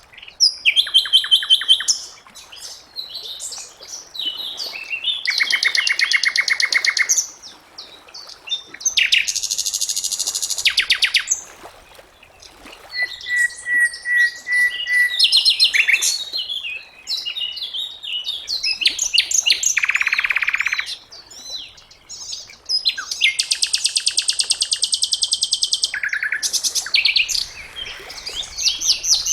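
Sikatan londo singing: a run of high-pitched phrases of fast trills, rattles and sharp notes, each lasting a second or two with short pauses between them.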